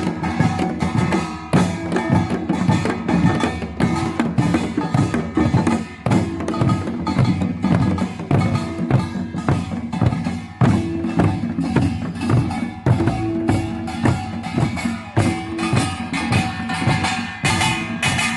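Korean samul nori percussion ensemble playing a fast, driving rhythm: gongs and drums struck many times a second, with ringing gong tones running under the beat.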